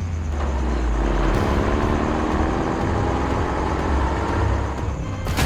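A vehicle engine running steadily, its pitch slowly rising, with a sharp knock near the end.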